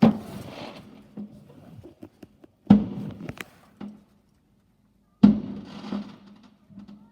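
Three loud firework bangs, about two and a half seconds apart, each trailing off in a short echoing tail.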